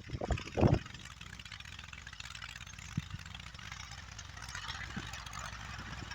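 An engine running steadily at idle, a low even hum, after a few louder sounds in the first second.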